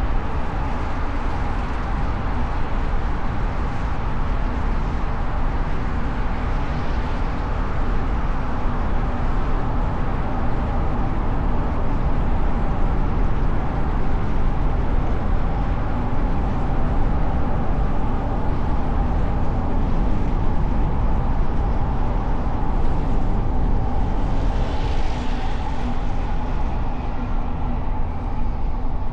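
Steady road noise of a car driving through city streets: low tyre and engine rumble with faint steady tones, and a couple of brief hissy swells from passing traffic about a quarter and near the end of the way through.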